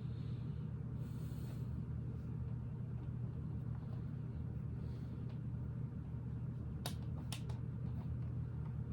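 Steady low background hum, with two or three faint sharp clicks about seven seconds in, plastic Lego pieces being handled.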